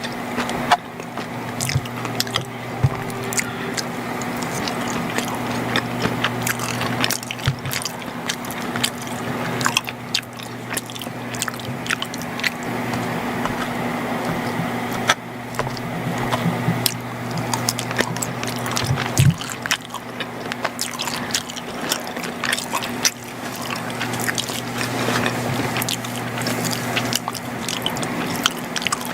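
Close-miked chewing and biting of macaroni and cheese, with wet mouth sounds and many sharp little clicks. A steady low electrical hum runs underneath.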